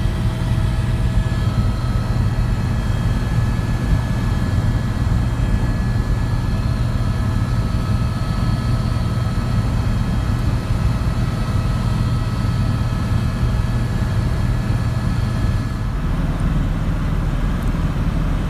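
Helicopter in flight heard from inside the cabin: a loud, steady low drone with several steady whining tones above it. The sound shifts slightly near the end.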